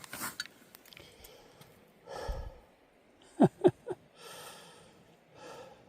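A man breathing hard and sighing, with two short vocal huffs about three and a half seconds in.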